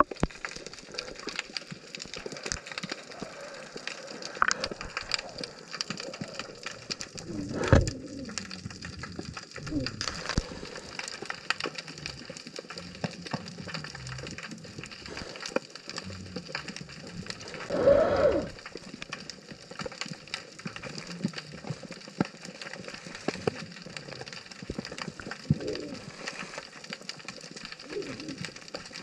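Underwater ambience recorded through a GoPro housing: a dense, steady crackle of tiny clicks, typical of snapping shrimp on a reef, with two louder muffled whooshes about eight and eighteen seconds in.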